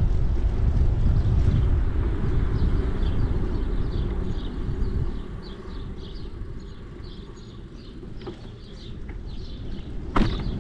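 Wind buffeting the microphone on a bicycle ride, with a heavy low rumble that dies down after about five seconds. A run of short high chirps or ticks, about three a second, follows, and there is one sharp click near the end.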